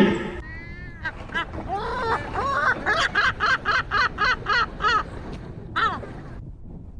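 A bird calling: a few separate calls, then a quick run of short notes that rise and fall in pitch, about five a second, and one last call about six seconds in.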